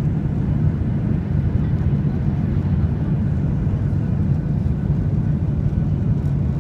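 Steady low rumble inside the cabin of a Boeing 737-800 in flight on approach: its CFM56-7B engines and the airflow over the fuselage, heard through the cabin wall.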